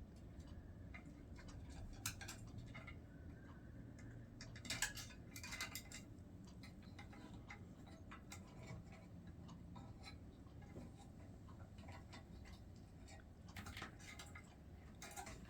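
Faint, scattered clicks and taps of an African grey parrot's beak and claws on her toy and perch as she clambers about, with small clusters about five seconds in and again near the end.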